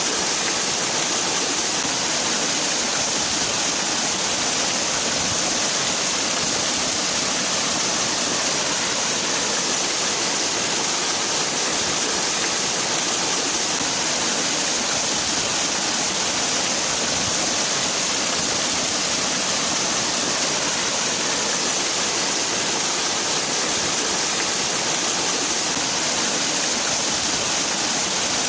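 Waterfall: water falling and splashing in a steady, even hiss with no breaks.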